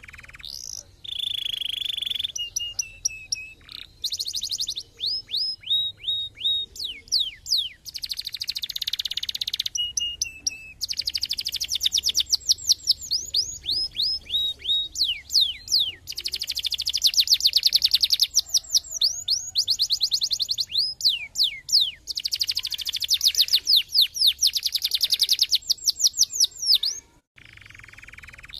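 Domestic canary singing a long song of fast trills: runs of rapidly repeated down-sweeping notes alternating with dense rolls and a few short series of steadier notes, with a brief pause near the end.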